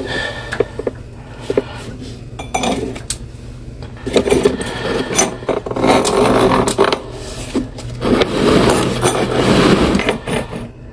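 Sewer inspection camera's push cable being fed into a cast iron sink drain, scraping and clattering, with scattered sharp clicks at first and then two longer stretches of steady scraping.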